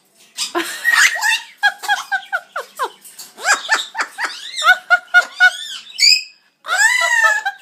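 Amazon parrot giving a string of high-pitched calls and laugh-like squawks, mixed with a woman's laughter: bursts of quick repeated notes, several sharp downward-sliding squawks, and a longer call near the end.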